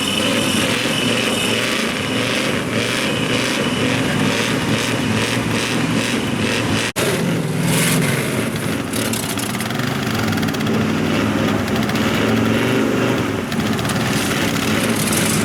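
Engines of mud-bogging trucks and Jeeps running hard and revving, with the sound cutting out for an instant about seven seconds in.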